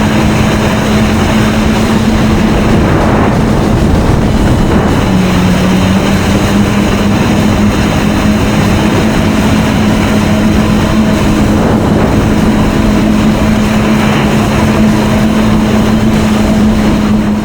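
Kawasaki jet ski's engine running steadily at speed, a steady drone that dips slightly in pitch about five seconds in and then returns, under a loud rush of water and wind noise.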